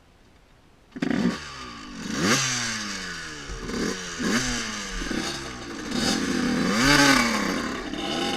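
Dirt bike engine starting up abruptly about a second in, then revving, its pitch rising and falling several times, loudest near the end.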